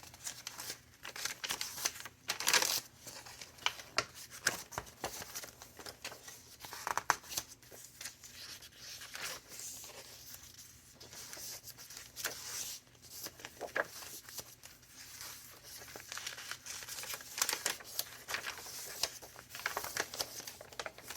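Paper pages of a large, chunky handmade junk journal being turned and handled, with irregular rustling and crinkling.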